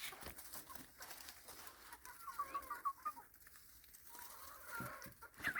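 Chickens clucking quietly, with a quick run of about half a dozen short clucks about two seconds in and faint scattered clicks around them.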